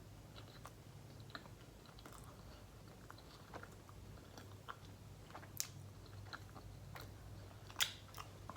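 A person chewing food with the mouth close to the microphone: soft, scattered mouth clicks over a low steady hum, with one sharper click near the end.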